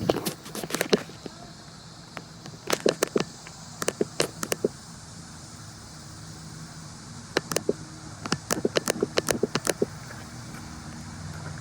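Runs of sharp clicks or taps, several a second, coming in short bursts about a second in, around three to four seconds in, and again near eight to nine seconds, over a steady low hum.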